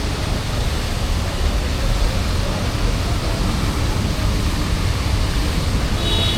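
Steady hiss of monsoon rain and traffic on a wet city street, with a low engine rumble underneath. A short high-pitched tone sounds near the end.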